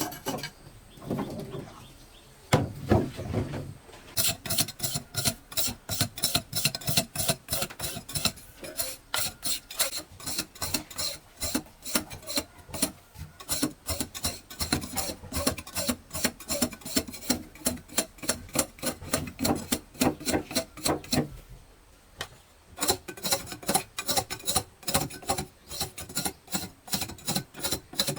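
Fast, even scraping strokes of a hand tool, about three or four a second, with a short break about three quarters of the way through.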